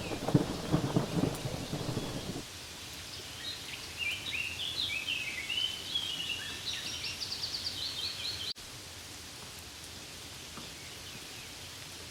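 Steady rainfall on leaves. For the first couple of seconds a low rumble of thunder runs under it and cuts off suddenly. In the middle, birds chirp in short high phrases before the sound drops abruptly to rain alone.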